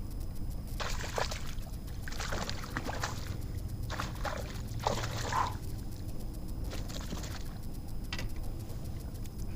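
Water splashing and trickling around a kayak in a series of short bursts, about a second apart, over a steady low rumble.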